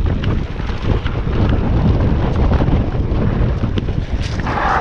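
Wind rushing over the microphone with the rumble and rattle of a mountain bike riding fast down a dirt trail, with a short hiss near the end.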